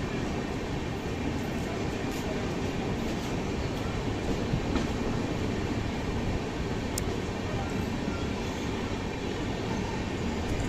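Coromandel Express passenger train running at speed, heard from on board: a steady rumble of wheels on track with a few faint clicks.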